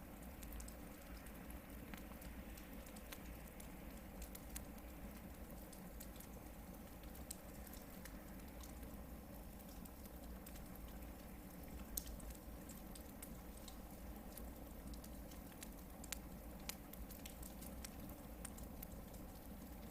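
Hardwood campfire burning, with scattered sharp crackles and pops from the logs throughout and a louder pop about twelve seconds in.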